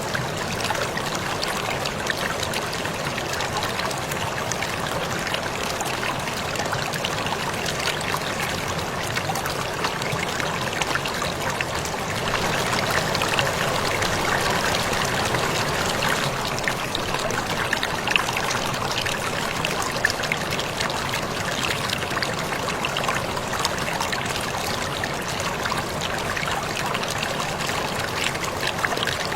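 Waterfall: a steady rush of falling, splashing water that swells slightly about midway.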